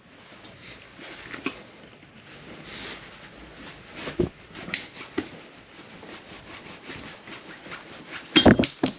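Hand tools working a cotter pin and the nut retainer off a truck's CV axle nut: scattered small metallic clicks and scrapes, with a louder flurry of clicks and a short squeak near the end.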